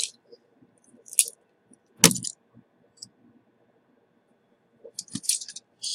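A few separate sharp metallic clicks and knocks, the loudest about two seconds in, then a quick run of light clinks near the end: small tools and parts being handled on a repair bench.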